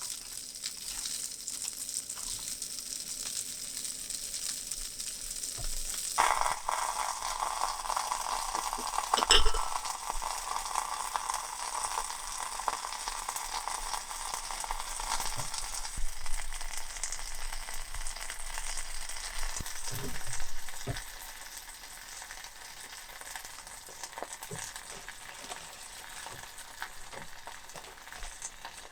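Food sizzling in a frying pan. About six seconds in, a louder sizzle starts suddenly and dies down over the next ten seconds, with a sharp knock of a utensil in between and light clicks of stirring later.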